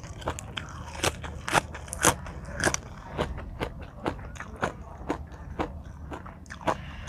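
A person eating close to the microphone: repeated crunchy bites and chewing of a spicy Thai seafood salad, with irregular sharp crackles.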